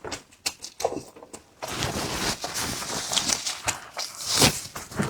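Close-miked eating: quick wet clicks and smacks of chewing, then several seconds of loud slurping that peaks near the end.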